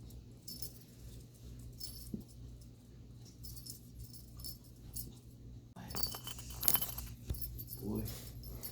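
A kitten's play toy jingling and rattling in short bursts as he bats at it, with a louder flurry of jingling about six seconds in.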